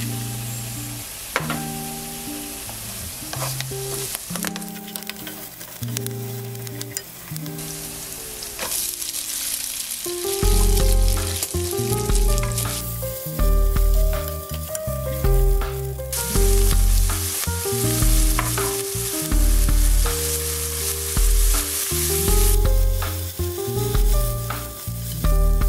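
Garlic, garlic scapes and then spaghetti sizzling in hot olive oil in a nonstick pan, stirred with a wooden spatula that clicks against the pan. Background music plays over it, and a heavy beat comes in about ten seconds in.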